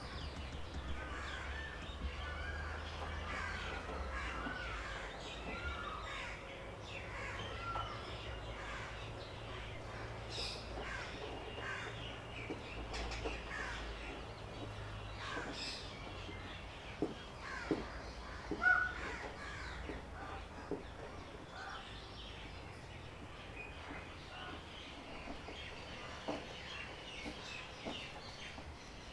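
Wild birds calling: many short chirps and calls overlapping, with a few sharper, louder calls a little past the middle.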